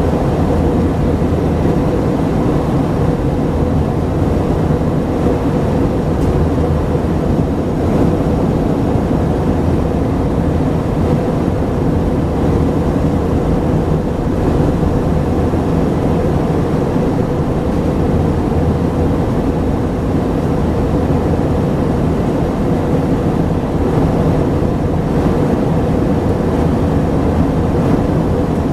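Airbus A319-132's IAE V2500 turbofan engines heard from inside the passenger cabin: a steady, loud drone with a low hum, unchanging throughout.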